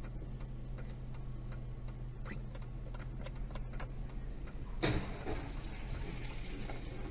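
Dashcam audio from inside a car waiting in traffic: a steady low engine hum with faint scattered ticks. About five seconds in, a louder rush of heavy-vehicle noise starts and carries on from a dump truck coming along the cross street.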